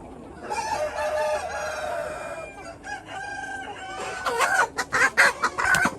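Chickens: a rooster crows in one long call starting about half a second in, followed by a shorter call and then a run of loud, quick clucks and cackles in the last couple of seconds.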